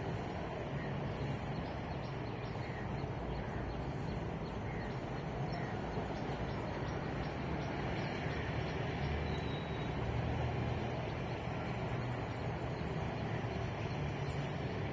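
Steady rumble of road traffic, with a few faint bird chirps over it.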